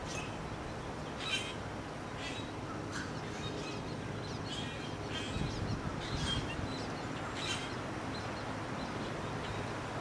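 Birds calling in short, scattered bursts about once a second, over a steady low background hum.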